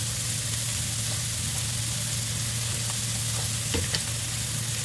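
Shredded chicken, carrot strips and onion sizzling steadily in oil in a wok, over a low steady hum, with a light click or two about four seconds in.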